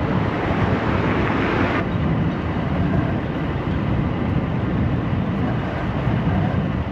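Steady rush of wind and road noise from riding an electric scooter along a city street. A brighter hiss in the first two seconds stops abruptly.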